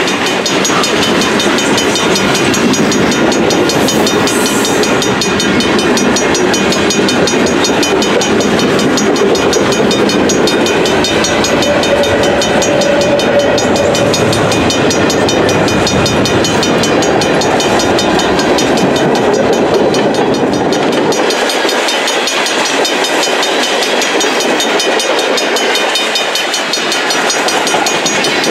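Freight cars of a long manifest train rolling past close by: a steady rumble and rattle of steel wheels on the rail, with clickety-clack. The deep rumble thins out about 21 seconds in, leaving the higher wheel and rail noise.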